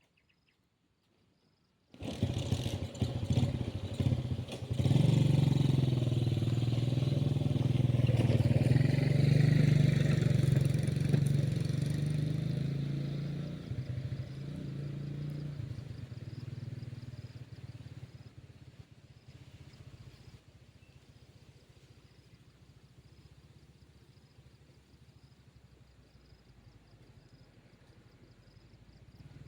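An engine starts suddenly about two seconds in and runs steadily, then fades away over several seconds as if moving off, leaving it faint near the end.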